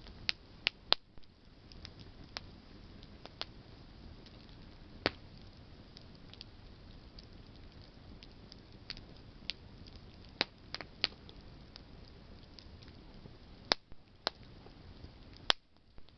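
Campfire of burning branches crackling, with a steady low hiss of flame and sharp, irregular pops and snaps from the wood.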